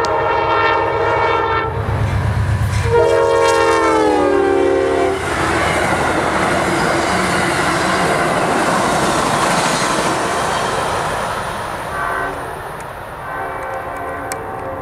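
An Amtrak passenger train passing close by. The diesel locomotive's horn sounds a long blast, then a second one about three seconds in that drops in pitch as the locomotive goes past. Then comes the steady rumble and clatter of the passenger cars' wheels on the rails, and near the end the horn sounds again, fainter, from the receding train.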